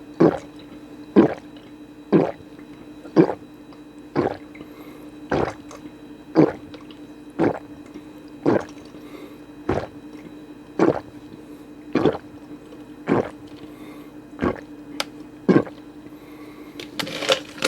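Close-miked gulps of a sports drink being swallowed, one wet gulp about every second in a steady rhythm.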